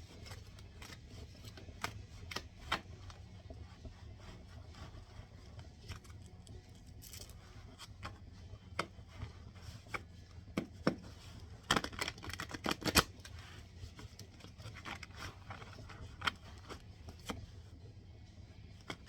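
A deck of oracle cards being shuffled and handled, giving scattered card flicks and snaps, with a cluster of louder snaps about two-thirds of the way through, over a steady low hum.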